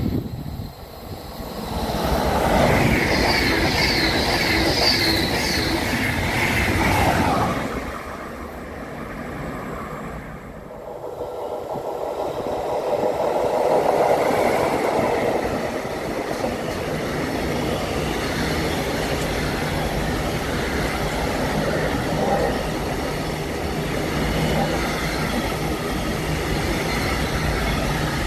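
A train passes loudly, its noise ending abruptly about seven seconds in. Then an electric freight locomotive comes up and passes, peaking about fourteen seconds in, followed by a long container freight train rolling by with steady wheel rumble and rail noise.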